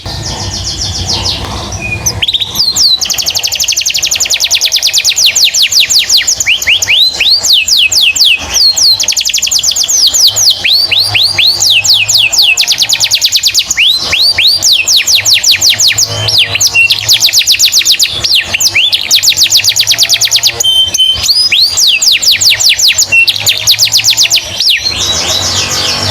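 Domestic canary singing a long, fast song of rapid repeated high chirps and trills, broken by brief pauses.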